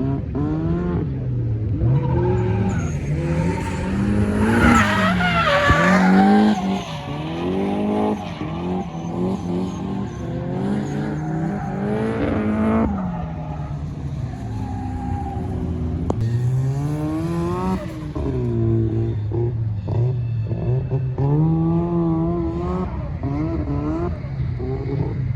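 A drift car's engine revving up and down over and over as it slides, with tyres squealing loudest about five seconds in.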